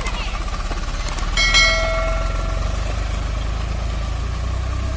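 Tractor diesel engine running with a steady low throb, and a short metallic ring about a second and a half in.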